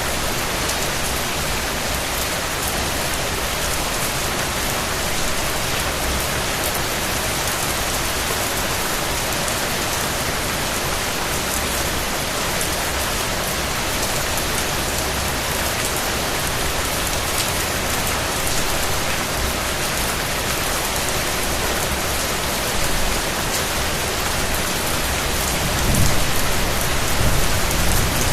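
Steady rain falling and pattering on surfaces. A low rumble swells briefly near the end.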